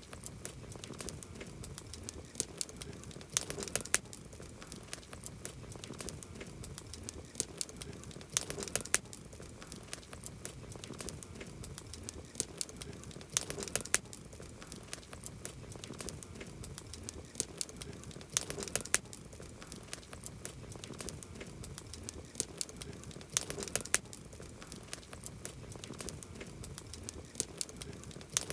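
Wood campfire crackling: sharp pops and snaps over a low hiss, with a cluster of louder pops about every five seconds.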